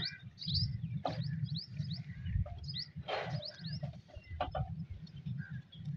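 Small birds chirping repeatedly in short quick notes, over a low uneven rumble. A few sharp clicks and knocks come about a second apart as the iron hand lever on a Ruston diesel engine is worked before starting.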